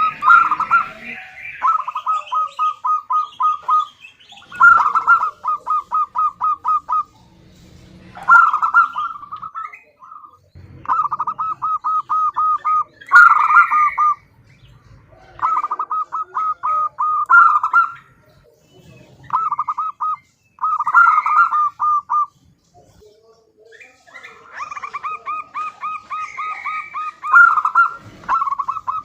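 Female zebra dove (perkutut) calling in repeated bouts of quick, evenly spaced notes, each bout lasting a second or two with short pauses between them.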